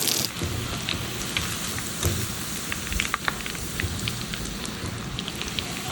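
Marinated chicken pieces deep-frying in hot oil in a small iron kadai: a steady sizzle with scattered crackling pops. A louder hiss cuts off just after the start.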